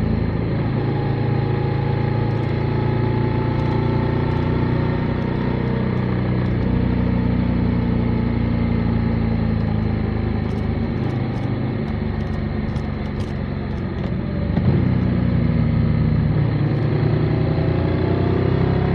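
Motorcycle engine running while riding, its pitch rising and falling with the throttle. About three-quarters of the way through it eases off briefly, then picks up again, louder and higher.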